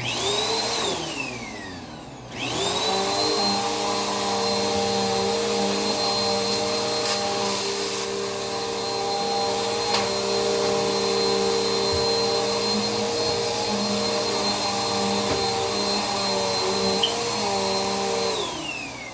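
Vacuum cleaner motor switched on and quickly off again, its whine rising and then falling. About two seconds in it is switched on again and runs steadily, then is switched off near the end and winds down with a falling whine.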